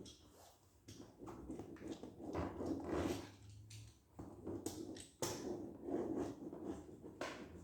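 Irregular rubbing, scuffing and handling noises, with a few sharp ticks, as a rubber rub strip is worked and pressed onto the side of an inflatable boat during gluing.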